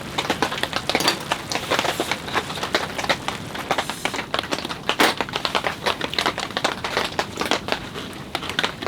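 Rain pattering on tent fabric: a dense, irregular patter of drops with a few louder hits.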